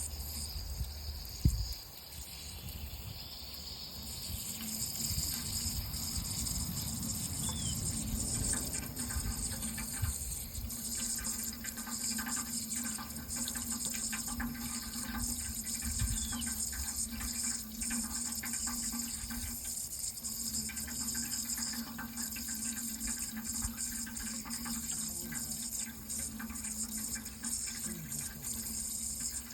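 Steady running water, with a single thump about a second and a half in.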